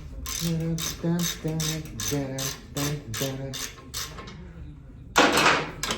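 A motorcycle jack being worked up in short strokes, about two a second, each stroke giving a pitched creak with a click, as the bike is raised for clearance at the rear axle. Near the end there is a louder rushing, scraping noise lasting about half a second.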